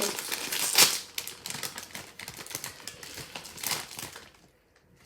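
A foil snack bag of Takis crinkling and crackling as it is opened and handled, with one louder crackle about a second in, fading out after about four seconds.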